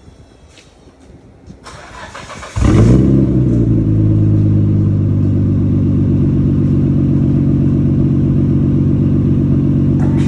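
Nissan Skyline R32 GT-R's RB26DETT twin-turbo inline-six, breathing through a newly fitted Tomei exhaust, is cranked for about a second. It catches with a brief flare and settles into a steady, loud idle. This is the first start after the exhaust install, run to check for exhaust leaks.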